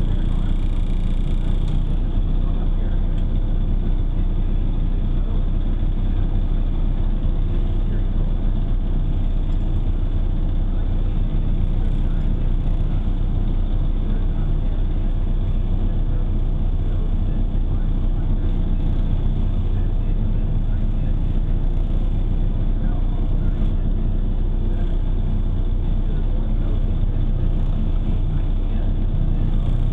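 Nissan 240SX race car's engine running steadily, heard from inside the car, with no revving.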